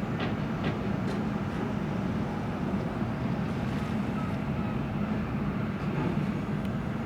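Steady low hum of a large car ferry's engines as the ship leaves port, heard muffled through the terminal's window glass, with a few faint clicks about half a second and a second in.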